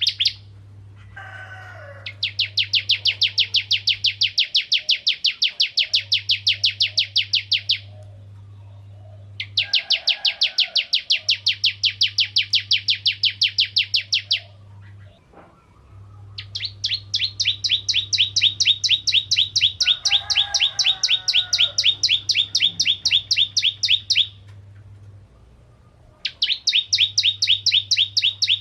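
Bar-winged prinia (ciblek kristal) singing in long, fast rattling trills of several seconds each, about a dozen notes a second, broken by short pauses. A few softer, lower chirps come in between the trills.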